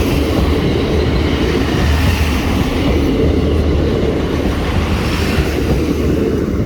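Diesel multiple-unit passenger train running past close by at a level crossing: a loud, steady rumble of engine and wheels with an uneven low throb.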